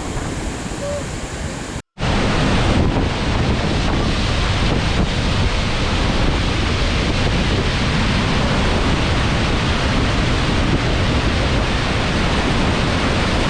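Iguazú Falls' water roaring as a loud, steady rush, with wind buffeting the microphone. It begins abruptly about two seconds in, after a brief cut to silence that follows a quieter rushing noise.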